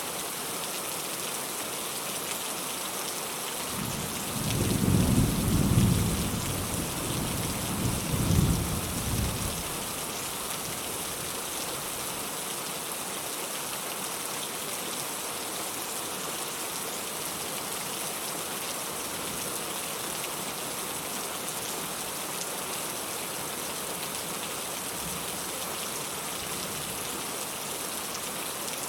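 Steady rain falling, with a roll of distant thunder rumbling low about four seconds in; it swells twice and dies away within about six seconds.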